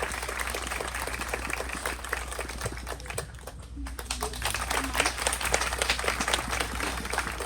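Audience applauding, a crowd of hands clapping; the clapping thins out briefly about halfway through, then picks up again.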